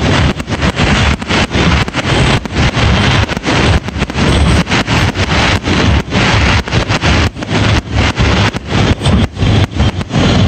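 Aerial firework shells bursting in a dense finale barrage. The booms overlap into a loud, unbroken low rumble, heavily distorted by clipping in the recording.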